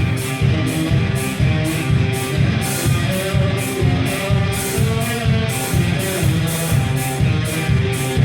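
Electric blues-rock riff played on a two-string guitar built from a Harley-Davidson muffler, over a steady driving beat of about two strokes a second.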